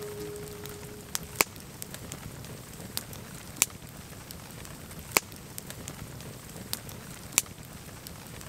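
Campfire crackling, with sharp irregular pops of burning wood over a low steady hiss.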